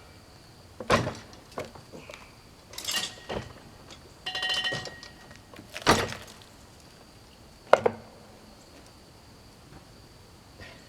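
Scattered metal clanks and wooden thunks, about six in all, from a log being shifted and turned on a sawmill carriage. One strike near the middle rings on briefly with a metallic tone.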